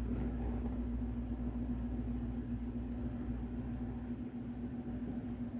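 Steady low mechanical hum with a constant droning tone: room background from a running appliance or fan.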